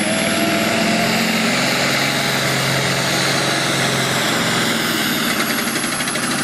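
Turbocharged diesel super stock pulling tractor running hard under load down the track, a steady high turbocharger whine over the engine.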